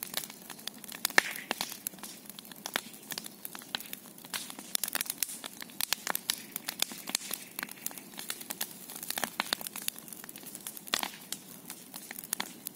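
A large bonfire crackling, with many sharp, irregular snaps.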